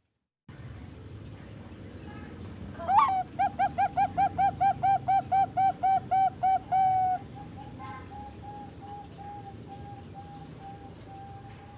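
Young zebra dove (Bangkok perkutut) cooing: a short rising note about three seconds in, then a rapid run of about fourteen clipped coos, roughly four a second, ending in a longer note. A fainter run of coos at the same pitch follows.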